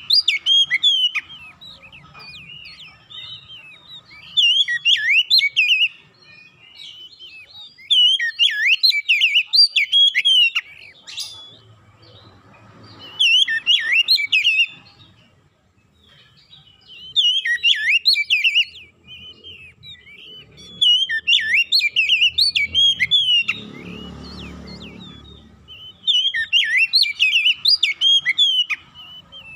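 Oriental magpie-robin (kacer) singing: bursts of rapid, varied whistled notes, each phrase a second or two long, repeated about every three to four seconds.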